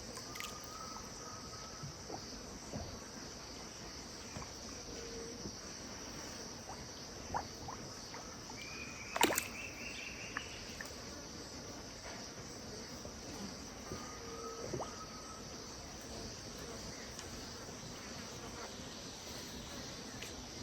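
Steady high-pitched chorus of insects at dusk, with a few short bird calls on top and one sharp click a little past the middle.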